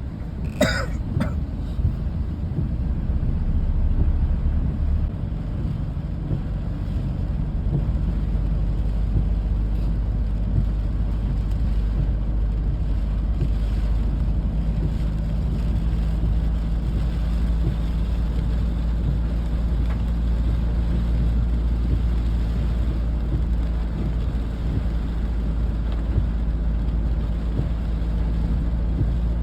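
Steady low engine rumble, like a running vehicle, with a short high squeak about a second in.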